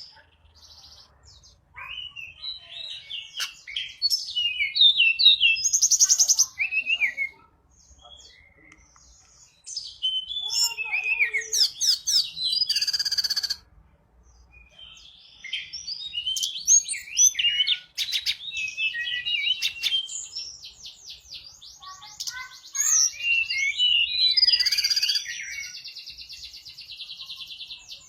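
A tledekan gunung, a small mountain flycatcher, singing energetically in repeated bouts of high, quick chirping phrases with brief pauses between them, some bouts ending in fast rattling trills.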